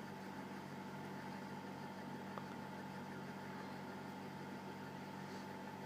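Hunter Pacific Aurora 2 ceiling fan running steadily, its motor giving a low, even hum with a faint higher tone above it.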